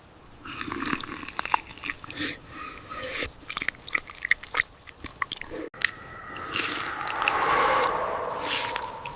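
Close-miked eating: wet chewing and biting with many quick smacks and clicks. A brief drop-out a little past halfway, then a denser, more continuous chewing sound.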